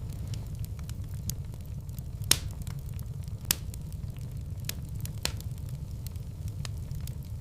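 Wood fire burning in a fireplace: a steady low rumble of the flames with scattered crackles and a few sharper pops, the loudest about two seconds in.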